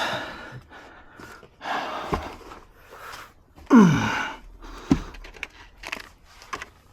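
Plastic car interior trim being handled and worked loose, with a few light clicks and rustles. About four seconds in, a man lets out a loud grunt or sigh that falls in pitch.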